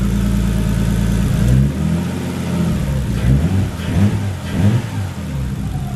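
Straight-six car engine idling, then blipped several times with quick rises and falls in revs before settling back to idle, running smoothly after new coils and plugs.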